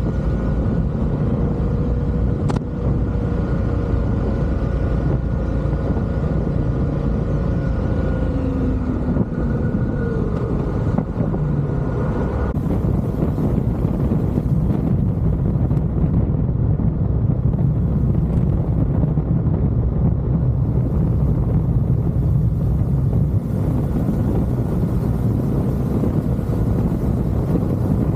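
Steady road and wind noise from a moving motorcycle, with a faint engine tone that drifts slowly lower in pitch and fades out about twelve seconds in.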